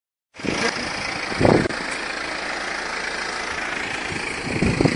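BMW 325d diesel car driving, a steady mix of engine and road noise, with two short low thumps, one early and one near the end.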